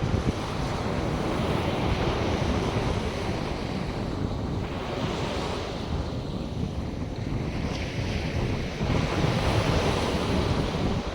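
North Sea waves breaking and washing up the beach in a steady surf, with wind buffeting the microphone.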